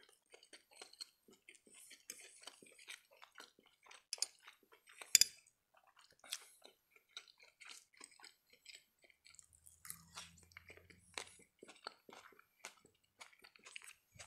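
Close-miked chewing and wet mouth clicks of a man eating spaghetti, with a single sharp clink of a fork on a dish about five seconds in.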